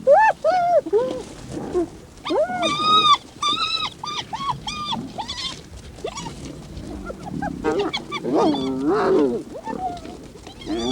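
Spotted hyenas giggling and squealing: a rapid string of short, high calls that rise and fall in pitch, with a lower cluster of calls about eight seconds in. This is the excited, fearful calling that hyenas make when they confront lions.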